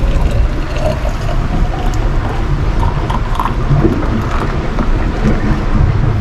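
Steady low rumble of a sailing yacht under way at sea, with hot water being poured from a kettle into a thermos.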